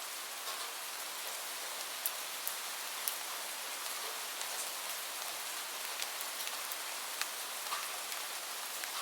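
Steady rain falling, a continuous hiss with scattered sharp drips and drop hits.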